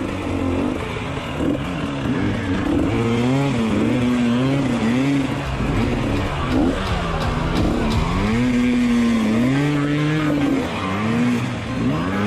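Dirt-bike revving sound for a toy Kawasaki KX 450F, its pitch swooping up and down over and over as it revs and eases off.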